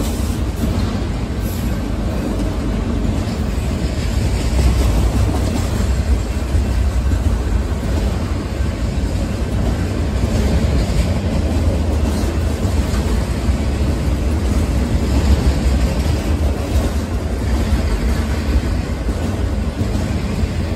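Freight train of autorack cars passing close at speed: a steady, loud low rumble of wheels and cars on the rails.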